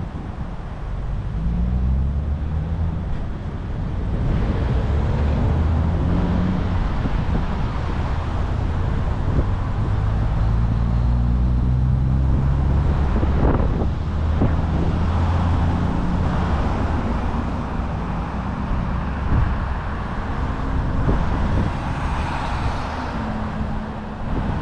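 Road traffic: motor vehicles passing and accelerating, their engine notes rising and falling over a steady low rumble.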